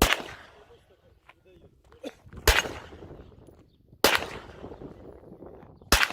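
Four single shots from a Glock 34 Gen 4 9mm pistol, fired at an uneven pace about one and a half to two and a half seconds apart, each crack followed by a fading echo.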